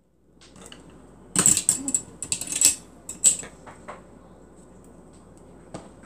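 Clusters of sharp clicks and rattles from small hard objects being handled, in bursts about a second and a half in and again around three seconds, with a single click near the end.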